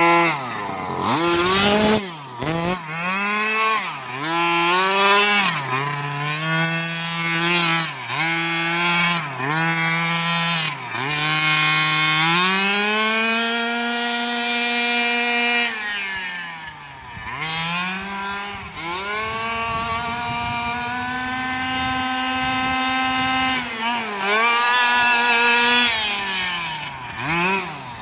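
Small two-stroke gas engine of a 1/5-scale Redcat Rampage XR Rally RC car, fitted with a JetPro tuned pipe, revving up and down in repeated short blips, then held at high revs for a few seconds at a time as the car drifts.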